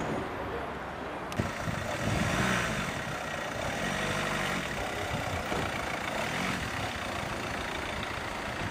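A vehicle engine running steadily amid general traffic noise, with a single sharp click about a second in.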